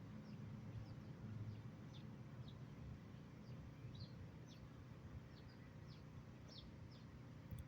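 Faint bird chirping: many short, high chirps that slide downward, about two a second, over a low steady background rumble.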